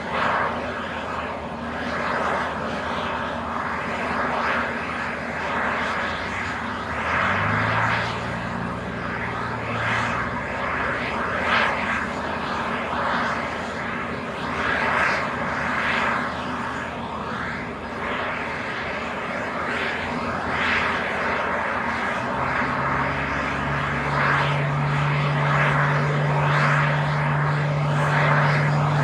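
Airbus A320neo jet airliner on the ground before takeoff: a continuous rushing jet noise that swells and eases every second or two. A low steady hum comes in briefly about seven seconds in and again from about 22 seconds on.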